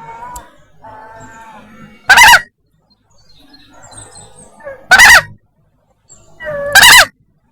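Emperor goose honking three times: short, loud, insistent calls a few seconds apart, the last led in by a softer call. Faint calls of other birds sit between them.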